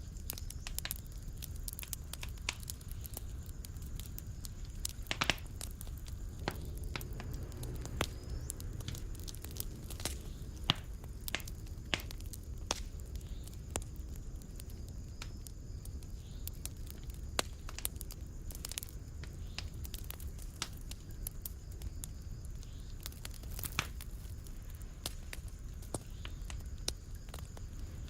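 Fire in a fireplace crackling: irregular sharp pops and snaps over a low, steady rumble.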